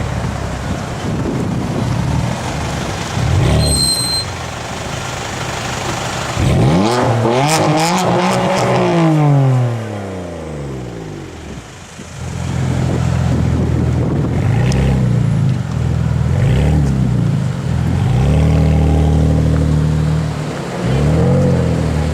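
BMW M4 Coupé's twin-turbo straight-six through an iPE aftermarket exhaust, loud. It runs at low revs, swings up in pitch and back down in one long rev about a third of the way in, then settles to low running broken by several short blips.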